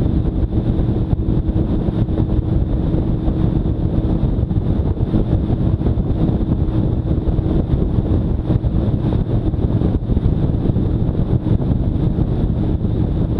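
Motorcycle engine running at a steady cruise, its drone held without revving up or down, mixed with wind rushing over the microphone.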